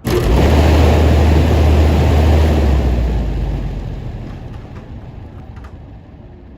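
Condenser fan motor and fan on a commercial Carrier condensing unit starting abruptly, with a low hum and a rush of air. It runs for about three seconds, then winds down and fades over the next few seconds. The technician judges the new motor to be spinning the wrong way, a sign that two of its supply wires need swapping.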